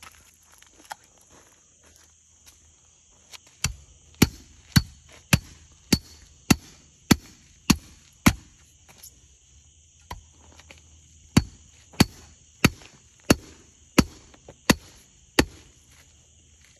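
Hand tamper pounding freshly laid cold-patch asphalt to pack it down: a run of about nine dull, even thuds a little over half a second apart, a pause of about three seconds, then about seven more at a slightly slower pace.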